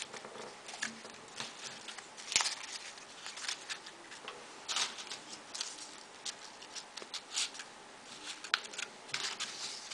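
Folded paper modular origami pieces rustling and clicking as they are handled and slotted into one another: irregular light rustles and taps, with one sharper tap about two and a half seconds in.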